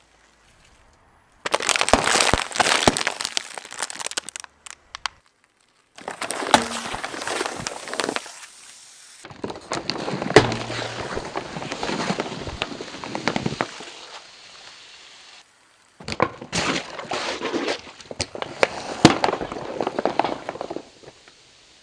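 Objects being crushed under a car's tyres: dense crunching and crackling with many sharp cracks and pops. It comes in four separate stretches of a few seconds each, starting and stopping abruptly.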